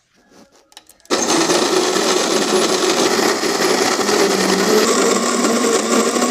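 Electric coffee grinder switched on about a second in and running loudly, grinding coffee beans, its motor pitch creeping slightly upward. A few light clicks come before it starts.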